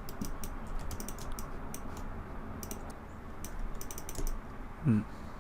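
Computer keyboard keys clicking in an irregular run of keystrokes.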